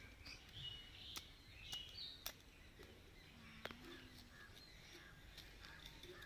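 Near silence with faint bird chirps in the first couple of seconds and a few soft clicks.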